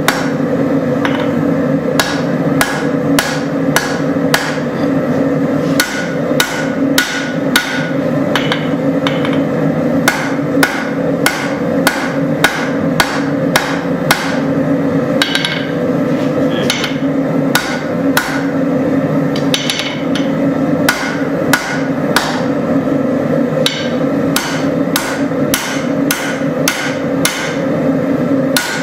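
Forging hammer beating hot spring steel on an anvil, drawing out a knife blade: a long run of ringing blows, about two to three a second with short pauses, over a steady drone.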